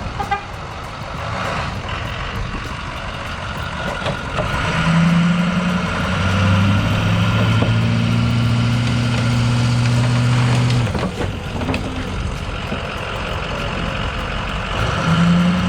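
Lifted Ford F-350 diesel truck's engine running, revving up about five seconds in and holding a steady higher pitch for about six seconds before dropping back, then rising again near the end.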